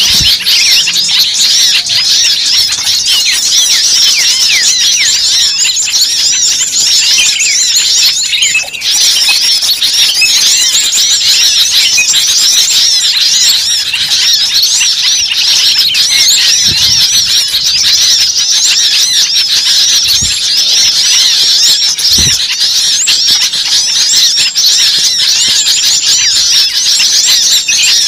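Bird-lure recording: a dense, unbroken din of many small birds calling at once, rapid high chirps and chattering piled on each other, the frantic noisy chorus meant to draw birds in. It briefly drops out about nine seconds in.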